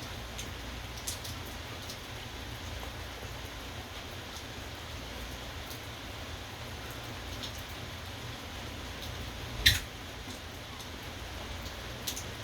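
Steady rain falling, with scattered raindrops ticking on a nearby surface and one sharp, louder drop strike about ten seconds in.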